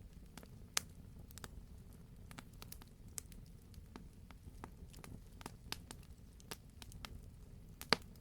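Wood fire crackling in a fireplace: a steady low rumble of the burning logs with irregular sharp pops, one louder pop near the end.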